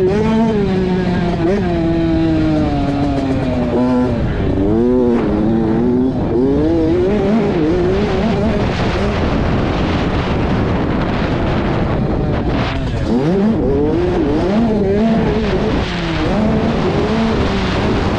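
Motocross dirt bike engine revving up and down over and over as the rider accelerates, shifts and backs off, over a steady rushing noise.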